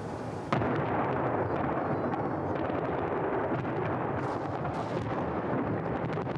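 Festive fireworks display: a sharp bang about half a second in, then continuous overlapping booms and crackling from bursting shells.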